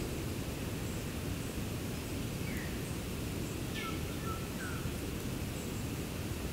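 Bushland ambience: a steady low rumble of background noise, with a few short, faint bird chirps between about two and five seconds in.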